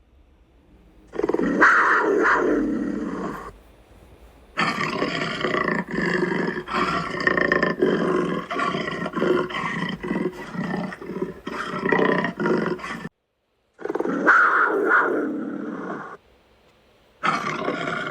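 An animal giving loud, rough roars and growls in four bouts, the longest about eight seconds; the sound cuts out abruptly about thirteen seconds in, then resumes.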